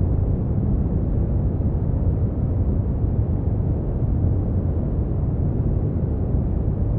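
Steady brown noise: an even, deep rumbling hiss weighted to the low end, with no changes.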